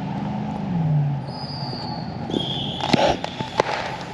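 Fireworks going off: high whistling tones, then a cluster of sharp cracks and pops about three seconds in.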